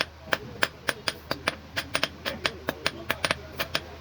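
Hand hammers striking metal on an anvil in quick succession, about five blows a second with a short metallic ring, forging a fishing spear.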